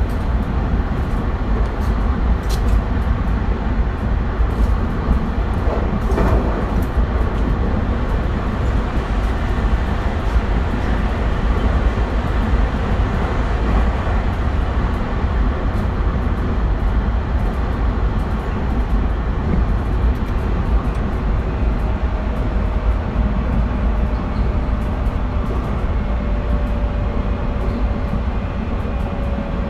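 Running noise of a JR West 271 series electric train with a Hitachi SiC inverter, heard from inside the car: a steady rumble of wheels on rail. A faint motor whine appears in the last third and falls slightly in pitch.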